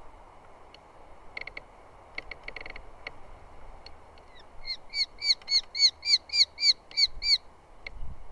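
Eurasian hobby calling at the nest: a few short chips, then, past the middle, a run of about a dozen sharp repeated notes, roughly four a second.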